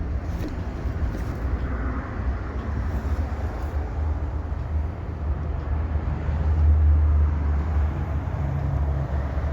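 Scania G420 truck's diesel engine idling with a steady low rumble, briefly louder about seven seconds in.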